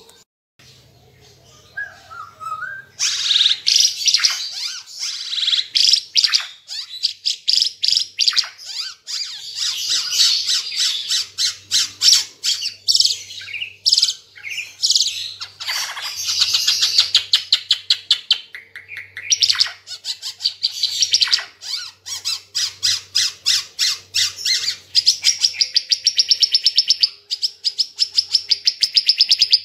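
An Ara Timor songbird singing a long, loud song of rapid chattering notes and fast trills. It begins about three seconds in and ends in a long, even trill near the end.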